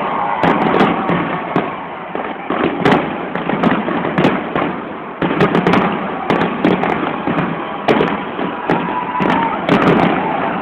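Large fireworks display with shells bursting in quick, irregular succession, several sharp bangs a second.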